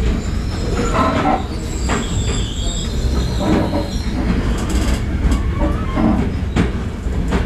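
Passenger train running on the rails: a steady low rumble of wheels and coaches, with faint high-pitched wheel squeal from the tight curves of a mountainous stretch and a few short clicks.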